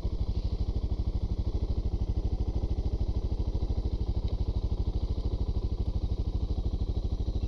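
Suzuki DR650's single-cylinder four-stroke engine running steadily at low revs, an even pulse of about ten beats a second.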